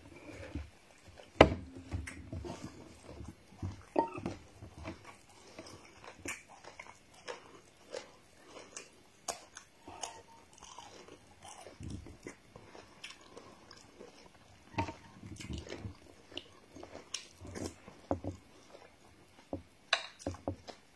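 A person biting and chewing pieces of coconut close to the microphone, with many short crunches and clicks at irregular intervals, the sharpest about a second and a half in.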